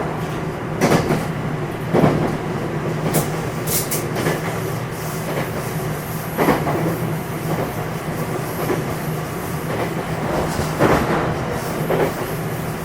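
Interior running sound of a JR West 227 series electric train's motor car: a steady rumble and constant low hum, with the wheels knocking over rail joints about six times at irregular intervals.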